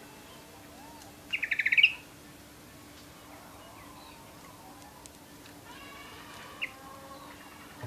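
Yorkshire canary giving one short, rapid trill of high notes about a second in, followed by a few faint, soft chirps and a single short note near the end.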